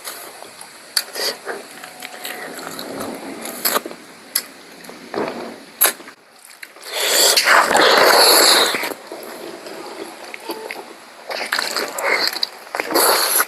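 Close-up eating sounds of a meal of spicy pork curry: chewing, smacking and small clicks and scrapes. About seven seconds in comes a loud, breathy rush that lasts about two seconds, and a shorter one follows near the end.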